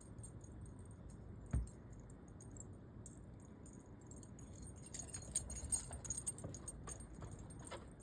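Faint light metallic jingling and clinking of small metal pieces, busiest from about five to seven seconds in, with a single knock about one and a half seconds in.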